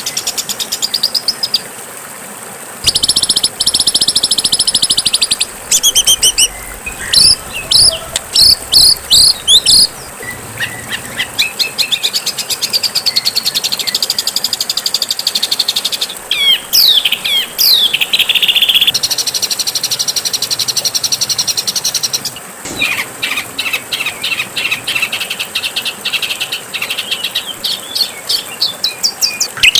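Songs and calls of caged songbirds, played one after another as a masteran track for songbirds to learn from. Buzzy chattering trills alternate with runs of sharp, quick falling notes and rapid chips, and the call changes abruptly every few seconds.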